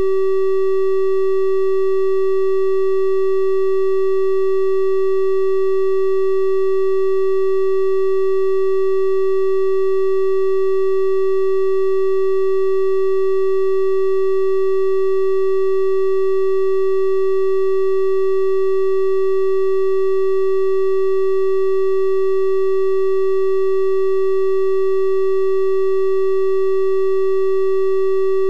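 A steady, unbroken synthesized 384 Hz triangle-wave tone: a pure-sounding hum with faint higher overtones, holding one pitch and level throughout.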